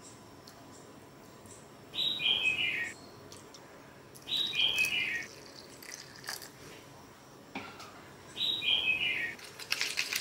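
A bird calls three times, each call a short run of notes stepping down in pitch and lasting about a second. Near the end a metal spoon starts stirring in a ceramic bowl of chopped chili and shallots, a rapid run of clicks and scrapes.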